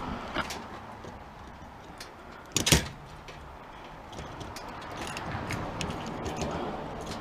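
Metal parts and tools clicking and knocking as an old electric coil stove is taken apart for scrap, with one loud clatter about two and a half seconds in.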